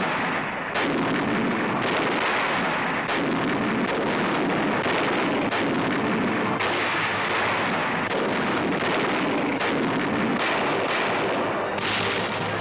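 Artillery guns firing a barrage: repeated heavy shots roughly every second or two over a continuous rumble, on a worn archival film soundtrack.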